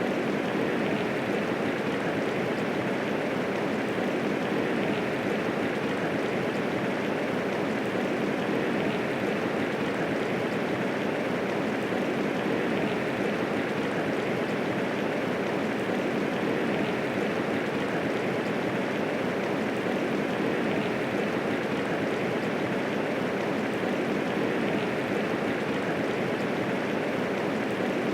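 Medium rainfall: a steady, even wash of rain with no thunder.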